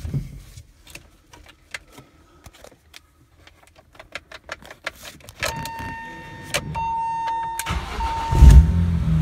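Cold start of a BMW S54 3.2-litre inline-six swapped into an E30 M3, unrun since November. A few clicks and a steady whine come first, then the engine cranks and catches with a loud burst about eight seconds in and settles into a steady run.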